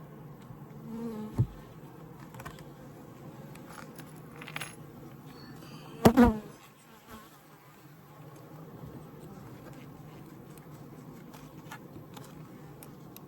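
Honeybee colony in an open Layens horizontal hive, humming steadily. A short knock comes about a second and a half in, and a louder thump about six seconds in.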